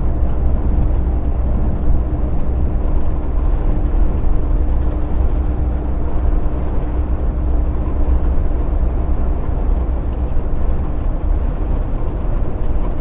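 Heavy truck driving at speed, heard from inside the cab: a steady low engine drone with road and tyre noise and a faint constant hum that fades out about two thirds of the way through.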